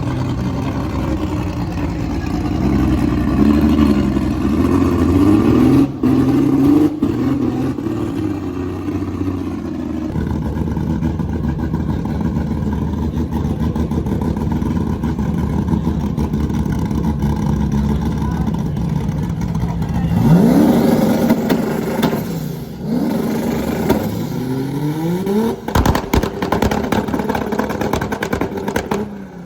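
Car engine running and revving, with the revs climbing sharply twice in the latter part, and a few sharp cracks.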